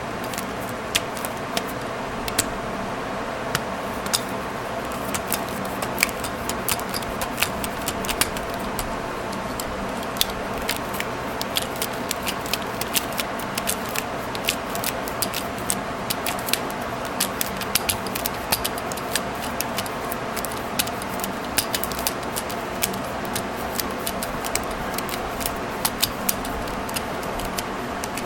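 Many small, irregular metal clicks and rattles of a staple remover being handled and worked, over a steady background hum.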